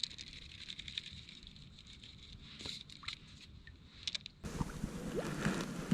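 Faint water lapping and small scattered clicks and knocks around a kayak; about four and a half seconds in, a louder rush of noise starts abruptly, like wind on the microphone.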